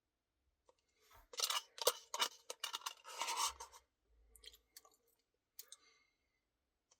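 Close-miked eating sounds from a cookie dough Blizzard: a dense run of rustling, clicking bursts from about a second in to about four seconds, then a few shorter, softer ones.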